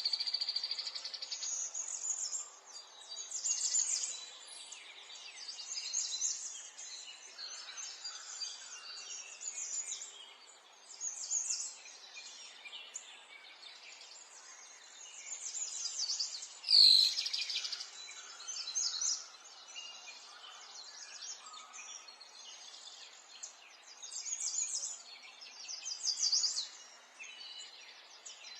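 Small songbirds chirping and twittering in repeated short high phrases over a faint steady outdoor background, with one much louder, sharp sound about two-thirds of the way through.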